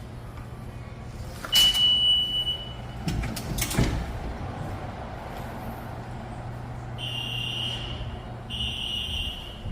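A high-pitched electronic alarm buzzes in repeated bursts of about a second each, starting about seven seconds in, over a steady low hum in the subway station. Earlier, about a second and a half in, there is a loud knock with a brief high ring, then a few more knocks.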